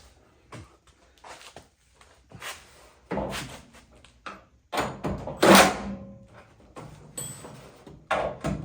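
Metal clunks and knocks from a square body Chevy truck's cab door being shifted and held in place on its hinges during fitting: a run of short hits, the loudest two coming about halfway through.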